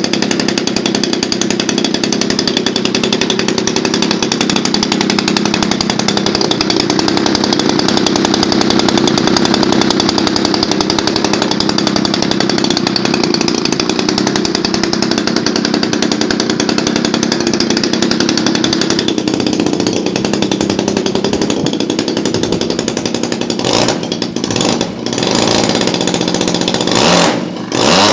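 MLD 35 cc single-cylinder two-stroke gas engine on a model airplane running loudly and steadily at high throttle. Near the end the throttle is pulled back and opened up again several times, the pitch falling and rising.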